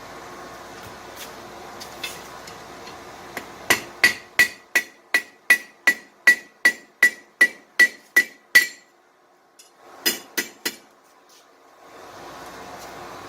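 Hand hammer striking hot steel on an anvil: a run of about fourteen ringing blows at roughly three a second, then a short pause and three more blows. A steady background noise runs under the first part and drops out during the pause.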